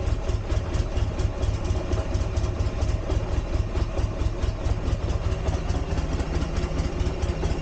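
Motorcycle engine idling with an even, pulsing beat of several pulses a second; the bike had been refusing to start and now starts and runs.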